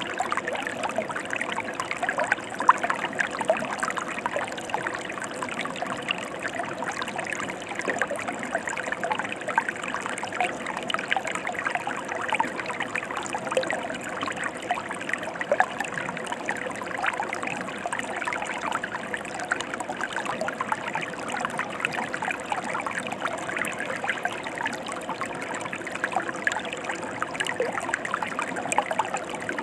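Stream water flowing steadily over rocks, a constant rush with many small splashes and trickles.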